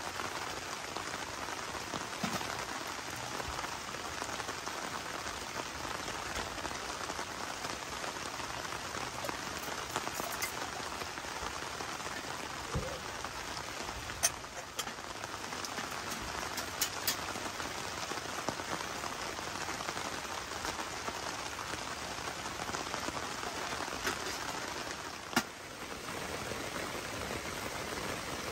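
Steady rain falling, an even hiss with a few sharper single drops striking close by now and then.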